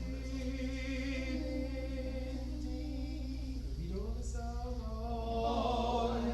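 A small group of men and women singing a hymn together, holding long notes, over a steady low hum.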